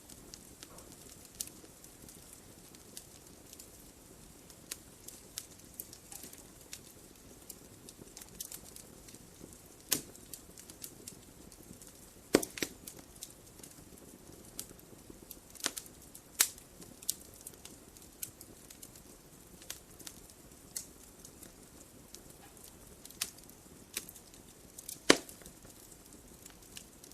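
Wood fire burning in a fireplace: a soft steady hiss with irregular sharp crackles and pops from the logs, a few of them louder snaps.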